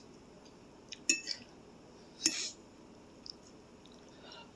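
Eating utensil clinking against a bowl of noodles: two sharp, briefly ringing clinks about a second and two seconds in, then a few fainter taps.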